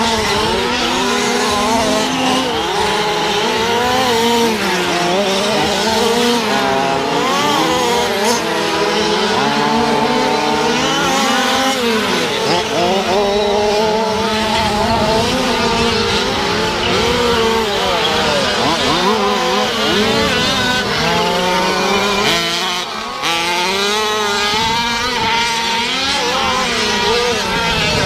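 Several gas-powered 1/5-scale RC trucks' small two-stroke engines racing together, each revving up and down as the trucks accelerate and back off, their pitches overlapping. The sound dips briefly about two-thirds of the way through.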